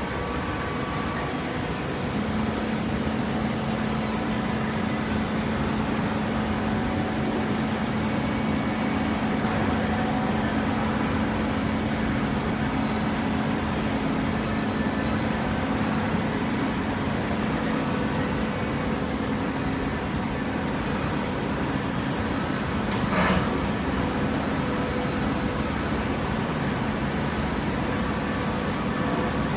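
Hydraulic baler for corrugated paper running, a steady machine noise with a hum that sets in about two seconds in, and one sharp knock about 23 seconds in.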